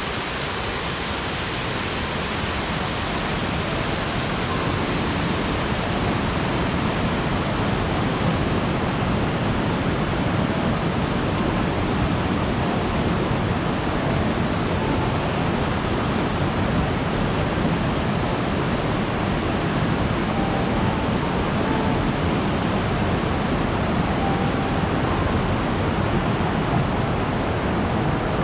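Waterfall rushing: a steady, even roar of falling water, growing a little louder over the first few seconds.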